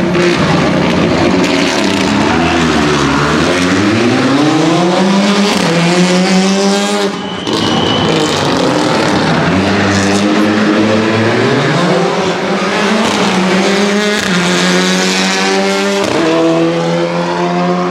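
Renault Clio Rally4 rally car engine at full attack: the revs drop as it slows for a corner, then climb hard through the gears, with sharp gear changes about seven seconds in and again near the end.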